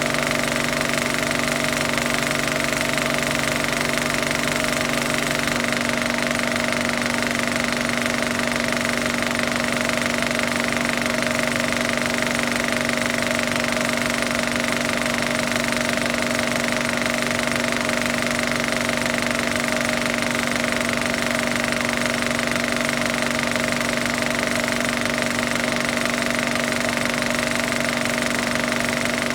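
Film projector running steadily: a constant mechanical whir with a rapid clatter, unchanging throughout.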